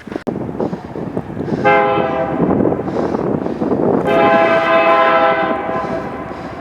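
Locomotive horn blowing a short blast, then a longer one about two seconds later, over the rumble of a passing train.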